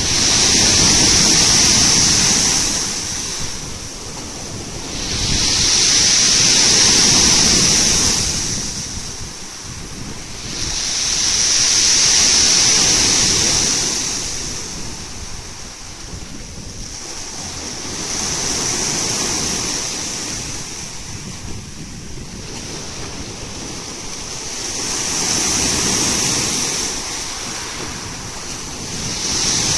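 Black Sea surf breaking on the shore: waves wash in and draw back in slow swells, one about every six to seven seconds, five in all, with a rushing hiss at each peak.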